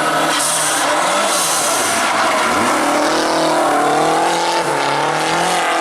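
Rally car engine under hard throttle, its pitch climbing, dropping briefly and climbing again as it runs up through the revs. There are short bursts of hiss in the first two seconds.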